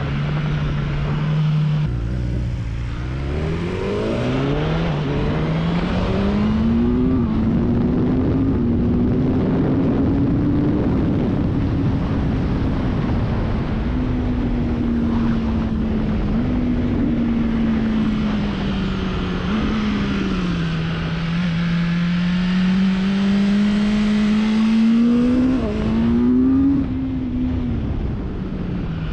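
BMW S1000R's inline-four engine heard from onboard, accelerating hard through the gears with several quick upshifts in the first seven seconds. It then holds high revs at speed, shifts again near the end, and the revs fall away as the bike slows.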